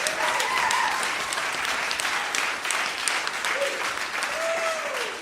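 Audience applauding with dense clapping, cheering, and a few voices calling out and whooping.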